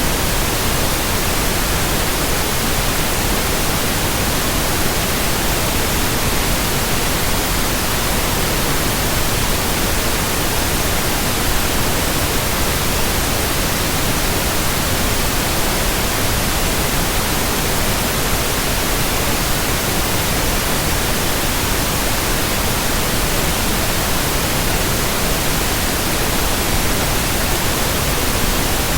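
Steady white noise: an even, unchanging hiss spread across all pitches, with no rhythm, tones or swells.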